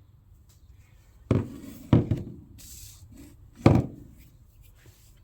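A few sharp knocks and clunks from parts or tools being handled on a workbench, about a second and a half, two seconds and nearly four seconds in, with a short rustle between them.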